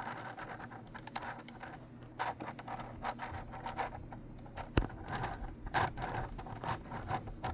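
3D-printed plastic crossbow magazine mechanism worked by hand: plastic parts scraping, with scattered small clicks and a sharp click a little under five seconds in.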